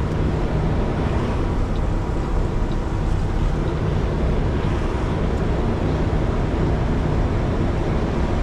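Kenworth T680 semi truck's diesel engine running at low speed while the rig manoeuvres, a steady low rumble heard from the cab with the windows down.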